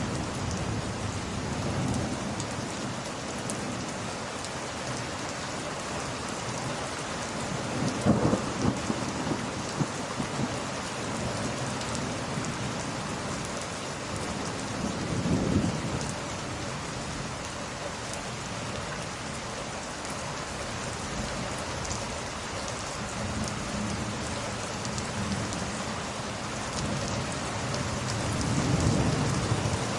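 Steady heavy rain falling, with low rolls of thunder: the loudest a little over a quarter of the way in, another about halfway, and a long one near the end.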